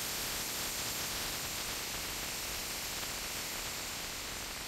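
Steady rushing noise of wind and ocean surf on a beach, with wind buffeting the microphone.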